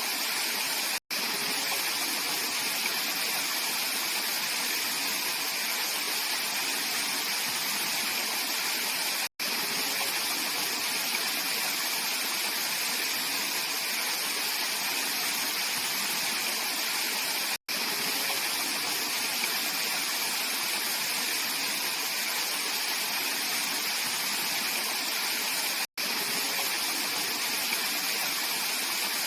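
Mountain valley stream, clear water flowing steadily over rocks as an even hiss. It is broken by a momentary dropout about every eight seconds.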